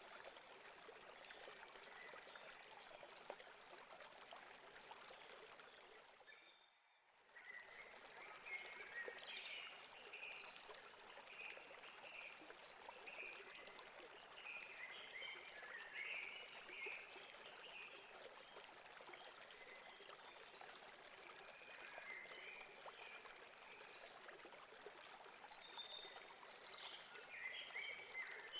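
Faint steady rush of a river stream, with small birds chirping in short phrases over it and a falling call near the end. The water sound drops out briefly about seven seconds in.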